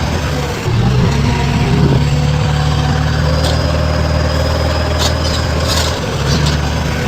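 Diesel engine of a heavy construction machine running steadily at low revs, its pitch shifting slightly about a second in and again near six seconds.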